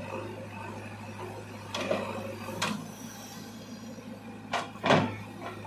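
Diesel engine of a JCB 3DX backhoe loader running steadily, with four short knocks about two, two and a half, four and a half and five seconds in. The last knock is the loudest.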